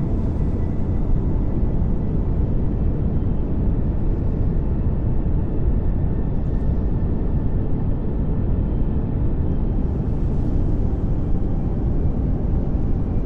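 Steady pink noise: an even rushing hiss, heaviest in the low range.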